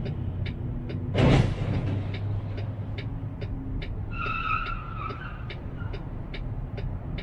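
Car running with steady engine and road rumble and a regular ticking about three times a second. About a second in there is one sudden loud burst of noise, and about four seconds in a high tone is held for about a second.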